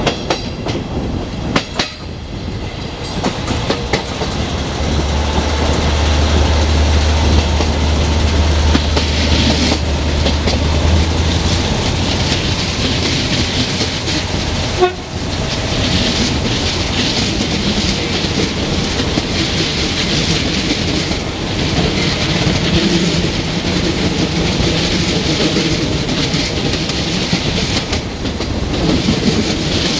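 Moving train heard from an open window: steady wheel and rail rolling noise with wheels clicking over rail joints. A low steady drone sounds from about five to eleven seconds in.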